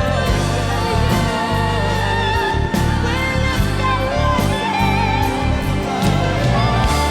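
Contemporary worship band music in a passage without lyrics: a wavering melodic lead over sustained bass, with occasional drum and cymbal hits.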